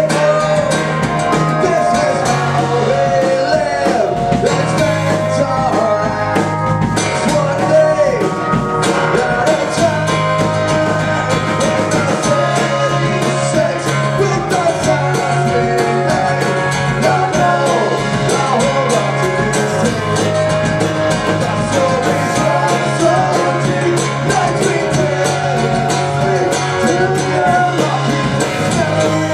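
Live acoustic punk rock performance: a voice singing over acoustic guitar, playing continuously.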